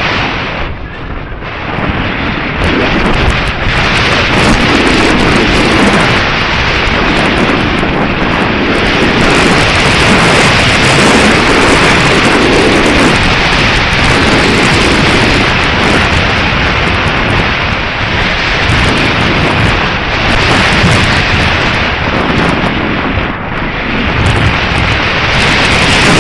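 Strong gusting wind buffeting the microphone: a loud, unbroken rumble and hiss that dips briefly about a second in and again near the end.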